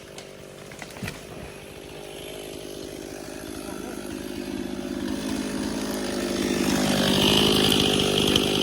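Chainsaw engine running steadily and growing steadily louder, with a sharper, higher whine in the last couple of seconds.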